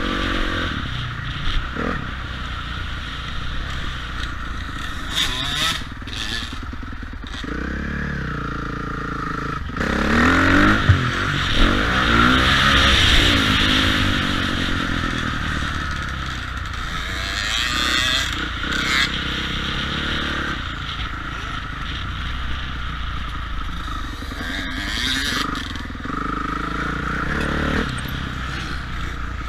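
Motocross dirt bike engine revving up and down as it rides, with pitch rising and falling through gear changes and throttle. It is loudest for a few seconds near the middle.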